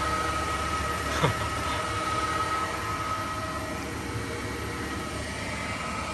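Steady running noise of a vehicle in motion, heard from inside: a low rumble with a steady high whine over it, and one short sweeping chirp about a second in.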